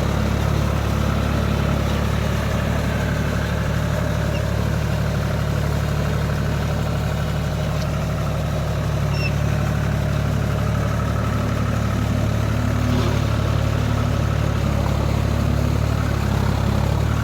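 John Deere 5042D tractor's three-cylinder diesel engine running steadily while working a rotavator.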